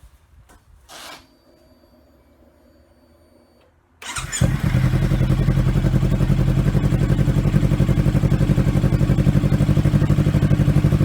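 Kawasaki Versys X300's parallel-twin engine starting about four seconds in, breathing through an aftermarket knock-off muffler with its baffle removed. It settles into a loud, steady idle with a fast pulsing exhaust beat.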